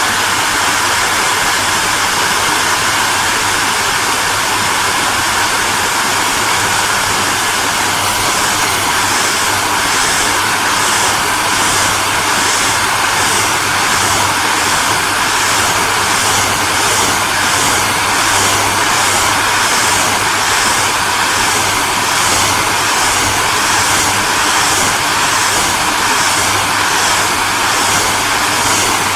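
Hair dryer running steadily, a constant airy rush of air over a low motor hum. About eight seconds in, a gentle regular pulsing comes into the high hiss, roughly one to two beats a second.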